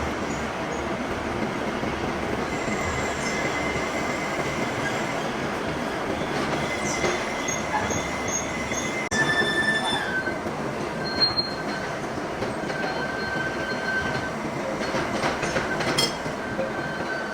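Metal being machined: steady dense shop-machine noise with thin high squealing tones of metal on metal that come and go, and an abrupt change about halfway through.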